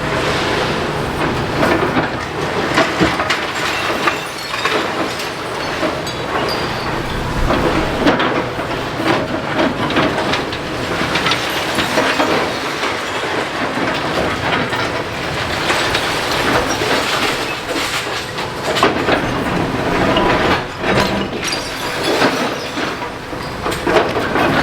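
Demolition excavator at work, with a continuous clatter and crunch of breaking masonry and tumbling rubble and many sharp knocks throughout.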